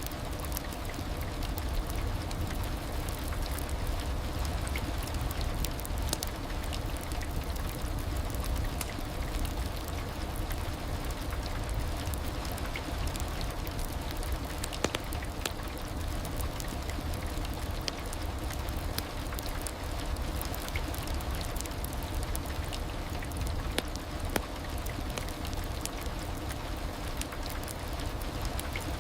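Heavy rain falling steadily, a dense hiss with many individual drops pattering, over a deep low rumble.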